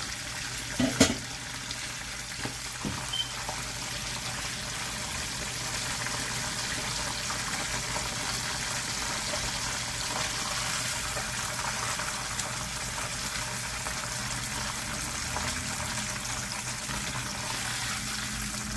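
Cooking oil in a frying pan sizzling steadily after flour-coated chicken legs have been fried in it. A sharp clack about a second in.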